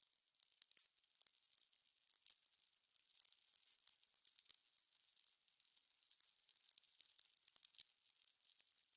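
Fire crackling quietly: a steady stream of irregular pops and snaps over a faint hiss, thin and high with no low rumble.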